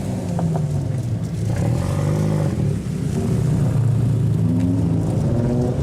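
Car engine revving hard, its pitch climbing and dropping again and again, with the last climb near the end.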